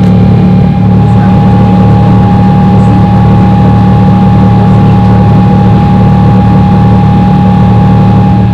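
Boeing 777-300ER's GE90 jet engines running: a loud, steady rumble with a constant low hum and a steady higher tone.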